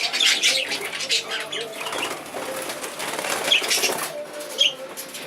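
A group of exhibition budgerigars chattering and chirping, with wings fluttering as they move about.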